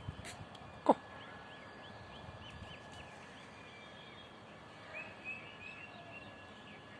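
A peacock gives a single loud, short call about a second in, falling sharply in pitch. Small birds chirp repeatedly in the background.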